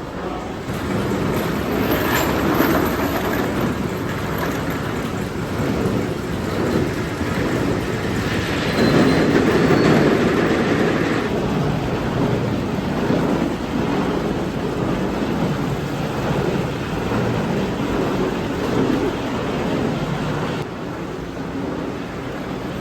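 A steady, noisy workshop din of machinery running, changing abruptly about 11 and 21 seconds in.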